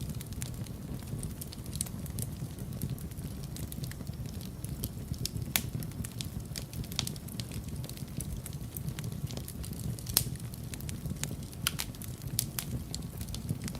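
Wood fire burning in a fireplace: a steady low rumble of flames with irregular sharp crackles and pops, two louder pops about five and a half and ten seconds in.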